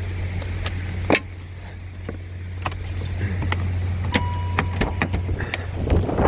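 A car's engine running with a steady low hum, under keys jangling and a scatter of sharp clicks and knocks. A short electronic beep sounds a little past halfway.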